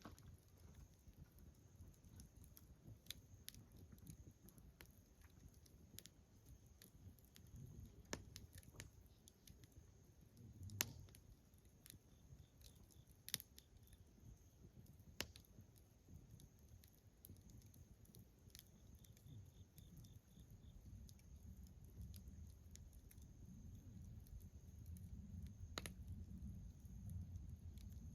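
Wood bonfire crackling faintly, with scattered sharp pops over a low steady flutter; the loudest pop comes about eleven seconds in.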